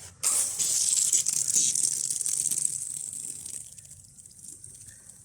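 Water hissing and rushing through a garden irrigation line as the timer opens zone 4. It starts suddenly and fades over about three seconds.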